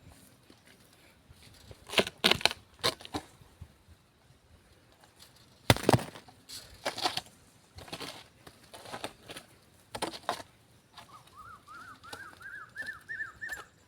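Scattered knocks and scrapes, the loudest about halfway through. Near the end, a bird gives a fast run of short, rising chirps lasting a few seconds.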